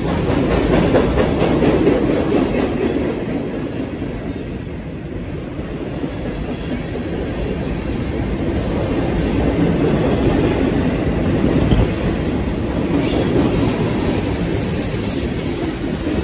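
Mixed freight train cars (boxcar, covered hoppers, tank car) rolling past at close range: a steady loud rumble of steel wheels on rail that swells and eases slightly as cars go by.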